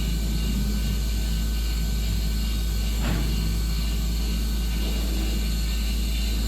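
A motor running steadily with a constant low hum and hiss, and one brief click about three seconds in.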